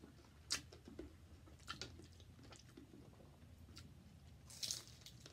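Egg rolls being bitten and chewed: faint wet chewing broken by a few short crunches, the loudest just before the end.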